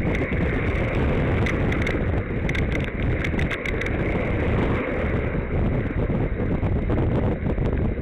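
Wind buffeting the microphone of a camera riding on a moving bicycle, a steady low rumble mixed with road noise. A run of short sharp clicks comes about one and a half to four seconds in.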